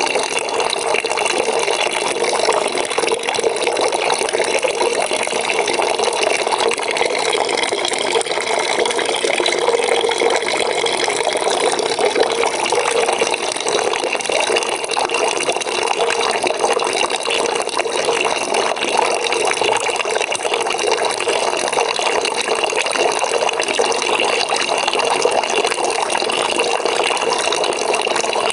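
Water pouring steadily into a bucket, a continuous splashing gush with no change in level.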